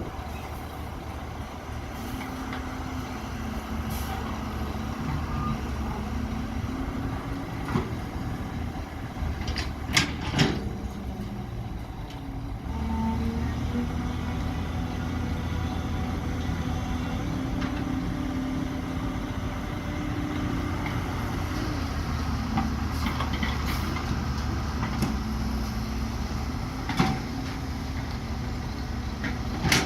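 Excavator diesel engine running steadily under working load, rising in pitch and level about 13 seconds in. A few sharp metallic clanks cut across it, two close together about a third of the way in and one near the end.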